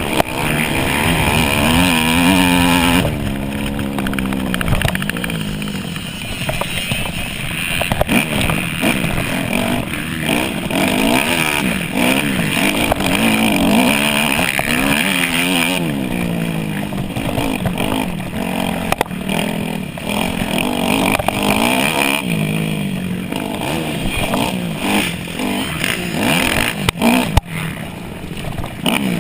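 Dirt bike engine revving up and down over and over, its pitch climbing and dropping with throttle and gear changes through the race. A couple of sharp knocks sound near the end.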